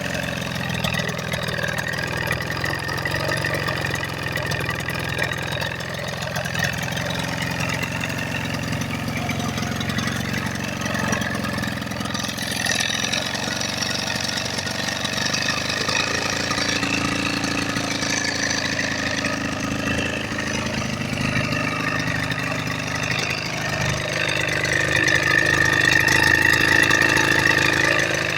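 1980 Evinrude 35 hp two-stroke outboard motor running steadily on its repaired CDI ignition, getting louder near the end.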